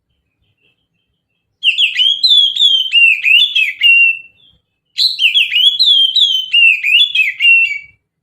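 Oriental magpie-robin singing: two phrases of rapid, varied whistled notes, each about three seconds long, with a short pause between them.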